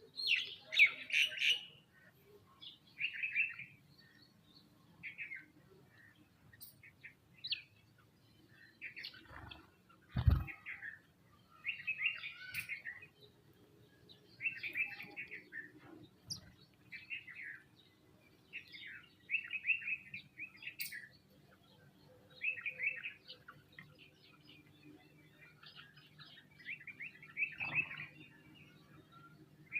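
Sparrows chirping in short bursts of cheeps every second or two, with a single low thump about ten seconds in.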